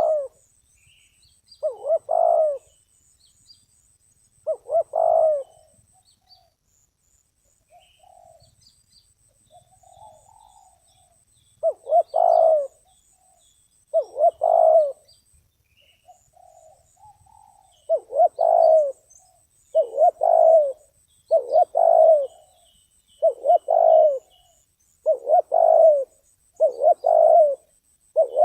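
Spotted dove cooing in short repeated phrases, a couple of seconds apart at first, with softer calls through a lull, then about every second and a half in the later part. Small birds chirp faintly in the background.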